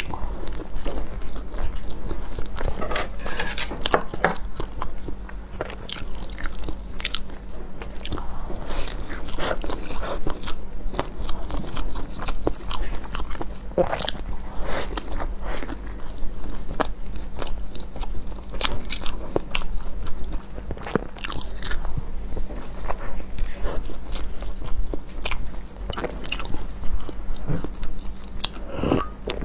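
A person biting into and chewing soft steamed stuffed buns (baozi), close to a clip-on microphone: a steady stream of irregular sharp mouth clicks and smacks, over a steady low hum.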